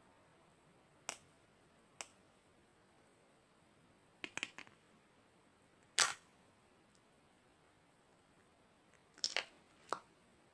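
Slime being pressed and poked, giving short sharp popping clicks as air pockets burst: single pops about one and two seconds in, a quick run of pops around four seconds, the loudest pop about six seconds in, and another short run near the end.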